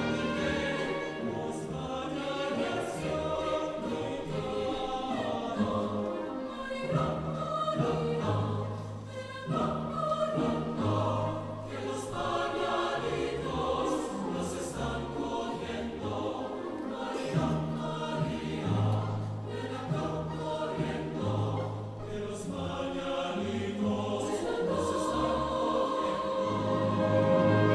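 Choir singing in several parts, with a low bass line moving in long notes under the upper voices.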